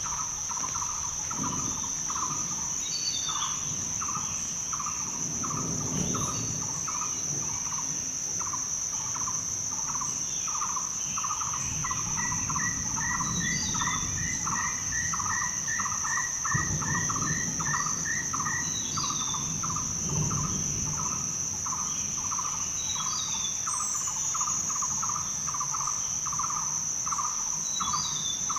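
Forest ambience of insects and birds: a steady high-pitched insect drone and a regular pulsing call about one and a half times a second. Birds chirp every few seconds, and from about 12 to 19 s one bird repeats a short note in an even series.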